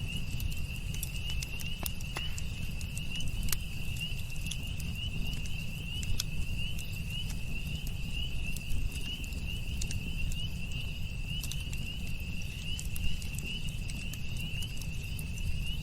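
Campfire crackling with scattered sharp pops over a steady low rumble. An insect trills without a break at one high pitch behind it.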